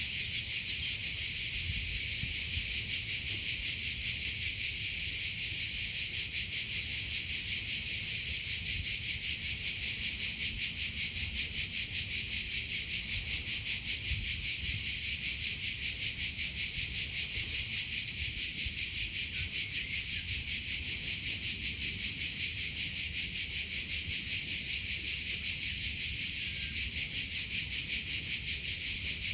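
Cricket chirping without pause: a steady, high-pitched trill made of rapid, even pulses.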